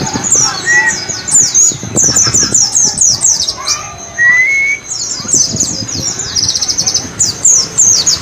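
White-eye (pleci) singing: a rapid run of high, sharp, downward-slurred chirps, with a fast trill about six and a half seconds in.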